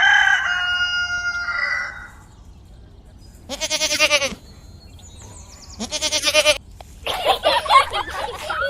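A rooster crowing once in a long held call, then two short, quavering goat bleats a couple of seconds apart. A busy, wavering babble starts near the end.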